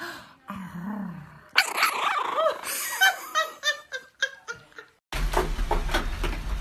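A dog barking, a string of short barks and yips after a lower sound at the start. Near the end it cuts abruptly to a steady low hum.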